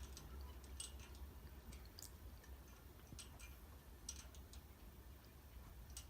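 Near silence as a 1970s Commander Angel ceiling fan coasts down with its power off: a faint low hum with scattered, irregular light ticks.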